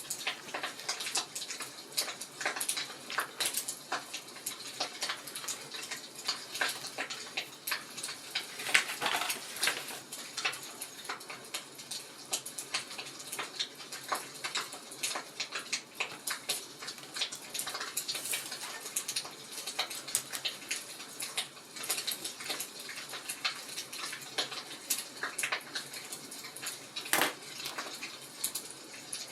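Wood fire crackling: a constant stream of irregular small pops and snaps over a soft hiss, with a louder snap about 27 seconds in.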